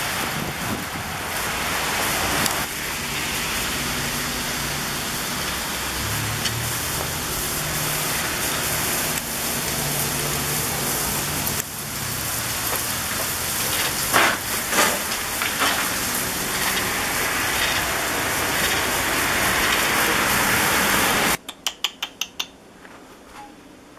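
Steady, loud hiss of freezing rain and sleet falling, which cuts off suddenly near the end, followed by a quick run of about six clicks.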